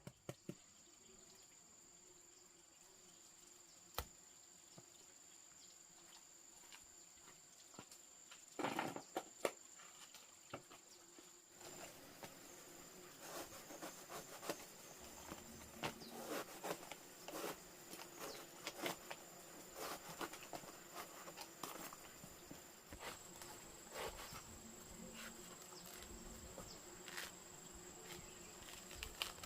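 Insects shrilling in a steady high-pitched tone, with scattered knocks and taps from about nine seconds in.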